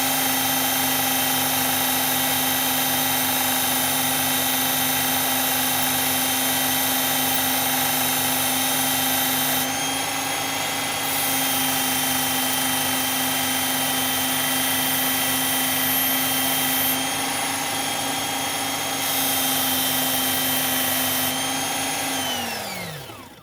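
Electric belt sharpener running steadily on a fine belt, with a knife blade held to it in three long grinding passes that add a loud hiss. Near the end the motor is switched off and winds down, its hum falling in pitch until it stops.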